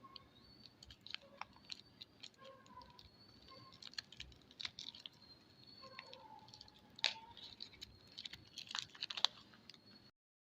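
Soap packaging being handled and unwrapped at close range: scattered crinkles, clicks and taps, cutting off abruptly near the end.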